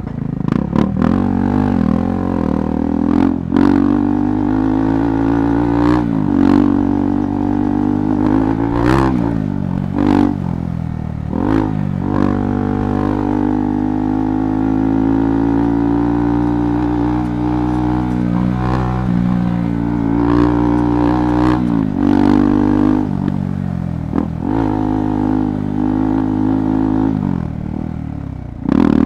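KTM 390 Adventure Rally's single-cylinder engine running under throttle, revs rising and dipping as the rider works the throttle over a rough off-road trail. Frequent sharp knocks and clatter come from the bike over the rough ground.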